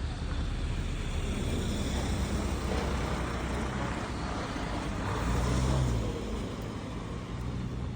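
Car driving, with steady engine and tyre rumble heard from inside the cabin, swelling a little louder about five seconds in.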